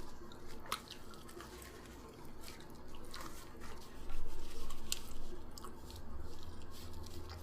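Close-miked eating: chewing with scattered sharp wet clicks of mouth and food. A low rumble comes in about halfway through.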